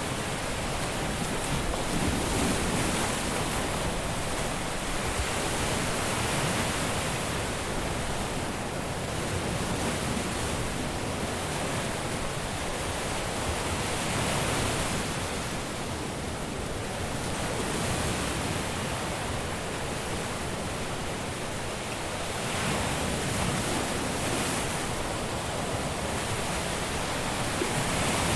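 Caribbean surf washing onto a beach: a continuous wash of breaking waves that swells and eases every few seconds.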